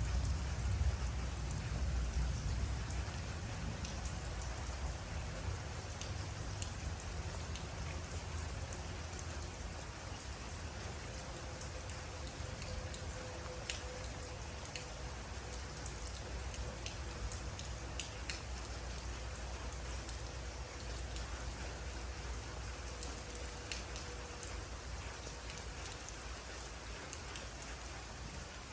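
Steady rain falling, with individual drops tapping sharply close by. A low rumble underneath is strongest in the first few seconds and slowly eases off.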